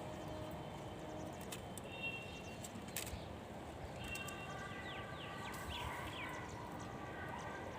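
Birds chirping, with a cluster of quick downward-sweeping calls in the middle and a few short whistled notes, over a steady low background rumble.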